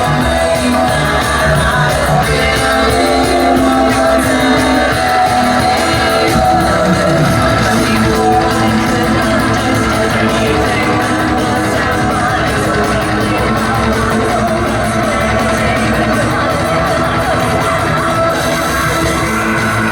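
Live rock band playing, with electric guitars, drums and singing, in a club hall.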